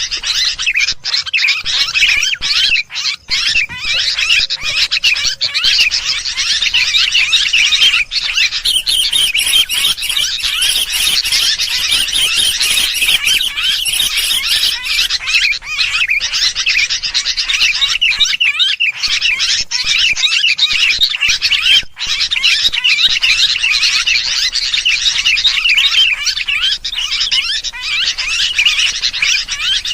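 Sooty-headed bulbuls chattering noisily, a dense unbroken mass of quick chirps and calls from several birds at once. This is a bird-lure (pikat) recording meant to draw other birds in.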